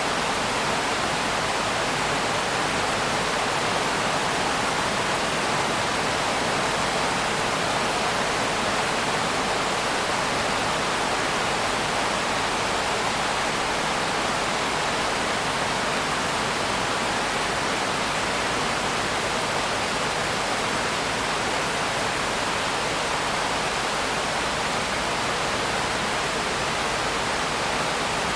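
Steady heavy rain: a dense, even hiss with no separate drops, thunder or change in level.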